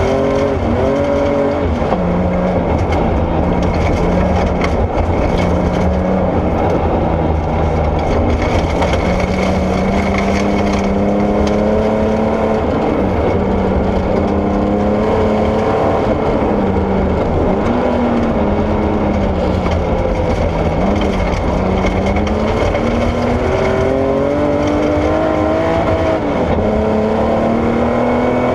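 Porsche 964 rally car's air-cooled flat-six engine driven hard, its revs climbing and dropping again and again through gear changes and lifts, over a steady rush of tyre and gravel noise.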